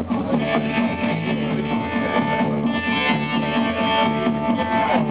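Live band playing an instrumental passage led by guitar, with a steady repeating bass line underneath.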